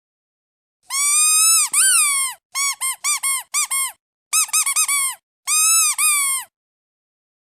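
Squeaky rubber duck toy being squeezed: two long squeaks about a second in, then a quick run of short squeaks, and a last long squeak, each one rising and then falling in pitch, with dead silence between bouts.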